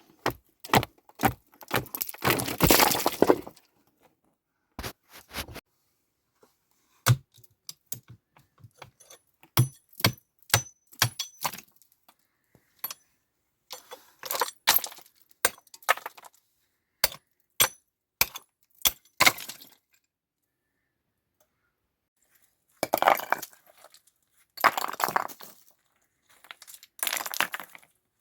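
Stones knocking and clinking against one another as they are handled and set, in separate sharp clacks with pauses between, with a few longer scraping sounds of about a second each.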